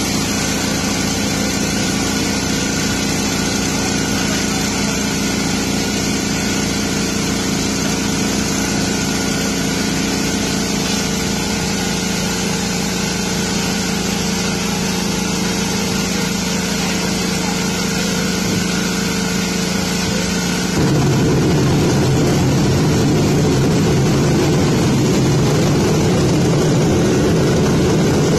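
An engine running steadily with an even pulsing beat. About three quarters of the way through it abruptly becomes louder and rougher, and stays that way.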